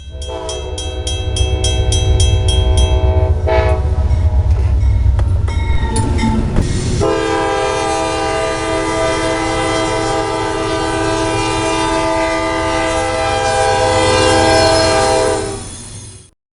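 Freight locomotive air horn blowing a chord over the heavy rumble of the diesel locomotive, with a bell ringing rapidly over the first three seconds. About seven seconds in, the horn sounds one long blast that is held for about eight seconds, then fades out.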